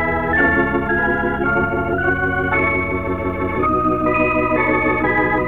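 Organ music: a melody moving over held chords, with the notes changing about twice a second.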